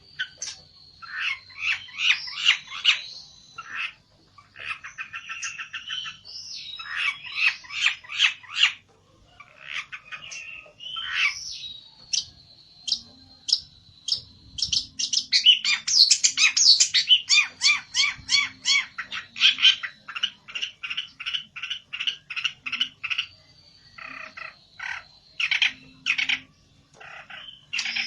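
A pelentet songbird singing hard in aggressive rival-challenge mode: loud, sharp notes fired in fast trains of several per second, broken by short pauses, with a thin steady high tone running behind them.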